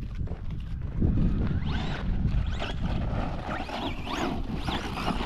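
Wind buffeting the microphone, a steady low rumble, with a series of high rising-and-falling whines starting about a second in.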